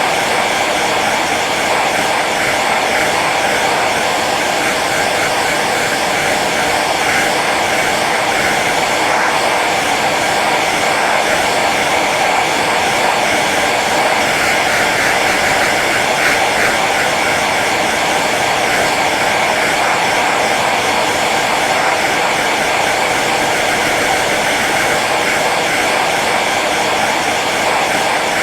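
Hair dryer running on its low setting: a steady, even whoosh of fan and blowing air that does not change.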